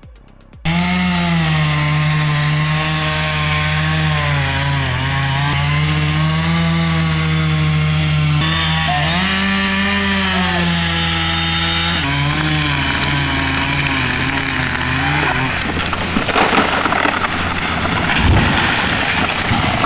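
Chainsaw cutting at high revs, its pitch dipping and wavering as the chain loads in the wood. In the last few seconds the saw's note gives way to a noisy crackling with several sharp knocks.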